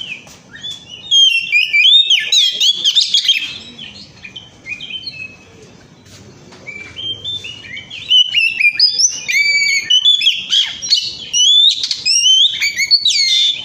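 Oriental magpie-robin singing a fast, varied song of gliding whistles and chirps, in two long bouts with a pause of a few seconds between.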